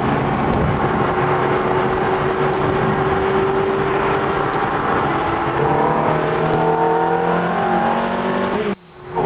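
Ferrari F430's V8 engine heard from on board, running under way with road noise. From about halfway through it revs up, its pitch climbing steadily. Near the end the sound cuts out briefly, then comes back.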